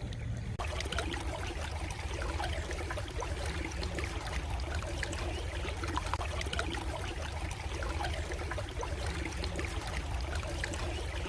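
Stream water trickling and babbling, a dense splashy hiss that cuts in abruptly about half a second in, over a steady low rumble.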